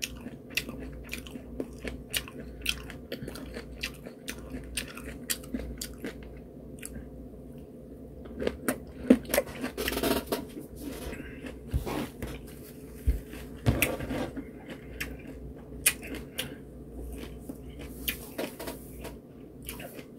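A person biting into and chewing peeled lemon segments: irregular, wet mouth clicks and chewing sounds, louder in a few spots.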